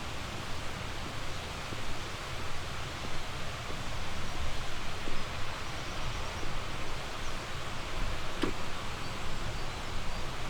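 Steady rush of a flowing river, with faint, short bird chirps high above it and a single sharp click about eight seconds in.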